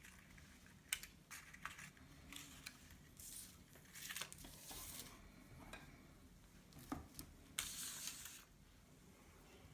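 Paper being handled and folded: faint rustles and crinkles with a few light clicks, the loudest crinkles coming in the middle and near the end.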